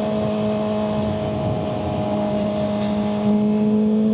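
Suzuki GSX-R 600 inline-four engine running at steady revs while riding, heard from on the bike with wind noise over the sound. The note gets a little louder about three seconds in.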